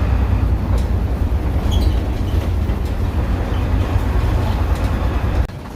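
Vintage bus on the move, heard from inside: a steady, loud low engine and road rumble with faint rattles, cutting off abruptly near the end.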